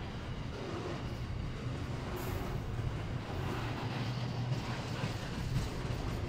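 Container freight wagons rolling past on the rails: a steady low rumble with occasional wheel clicks.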